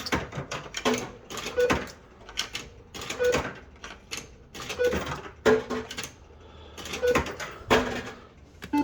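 Bell-Fruit Wild Cats fruit machine being played: a steady run of mechanical clacks and clunks, about one a second, with short electronic beeps between them.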